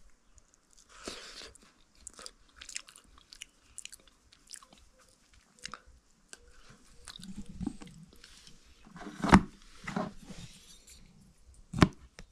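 A person chewing and biting into cooked pumpkin, with scattered small clicks and mouth sounds. There are two sharper knocks, about nine seconds in and near the end.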